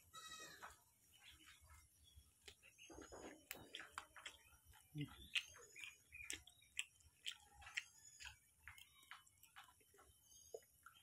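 Faint eating sounds: chewing with scattered lip smacks and soft clicks as fingers mix rice.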